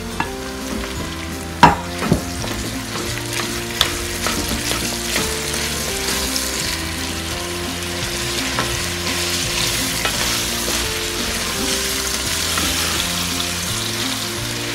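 Raw chicken mince sizzling in hot oil with onions in a pot as it is broken up and stirred with a spatula. A few sharp knocks of the spatula on the pot come in the first four seconds, and the sizzle grows slightly louder and brighter toward the end.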